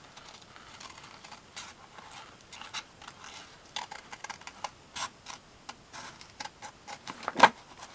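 Paper handling at a craft desk: magazine pages and cut-outs rustling, with irregular small clicks and taps and one louder tap just after seven seconds.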